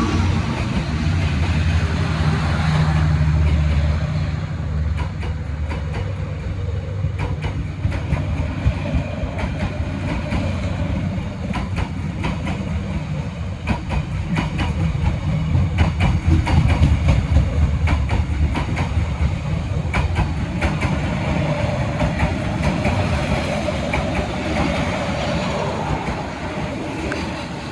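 Passenger train hauled by a D19E diesel-electric locomotive running along the track: a steady low rumble with many sharp wheel clicks over the rail joints, swelling a little past the middle.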